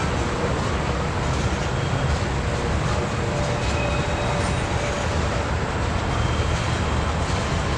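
Freight train cars rolling past at steady speed, a continuous rumble of steel wheels on the rails with faint thin squeals coming and going.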